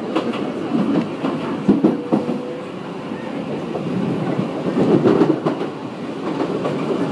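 Tokyu 8500-series commuter train running, heard from inside the car: wheels clicking over rail joints under a steady running rumble. The noise swells as another train passes close alongside.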